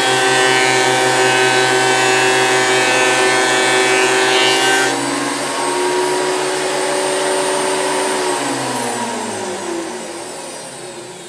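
Makita 2012NB thickness planer running with a steady high whine, cutting through a board for about the first five seconds, then running free. Near the end it is switched off and winds down, its pitch falling as it fades.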